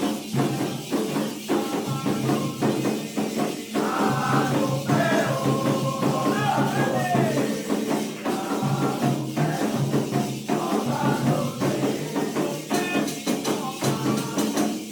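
Candomblé ritual music: a steady beat of hand percussion with shakers or rattles, and voices singing over it.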